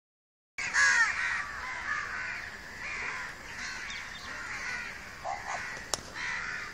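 A bird calling over and over, calls coming roughly every half second to a second, with a single sharp click near the end.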